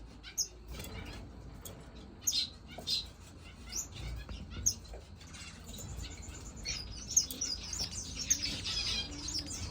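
Star finches calling: a few short, high chirps spaced apart, then a denser run of soft twittering song near the end.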